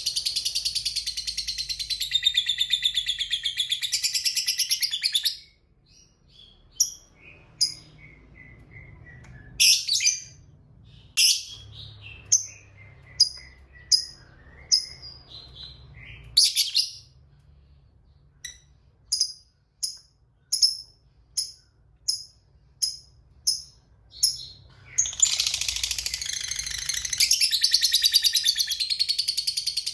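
Lovebird's long, rapid chattering trill ('ngekek panjang') for about five seconds, then a string of separate sharp chirps and short falling twitters, then another long chattering trill starting near the end.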